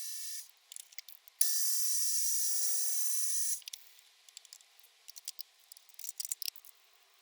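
A small mill's spindle runs with a high whine and hiss, stops about half a second in, and runs again for about two seconds. After that come scattered light clicks and ticks of metal handling and adjustment.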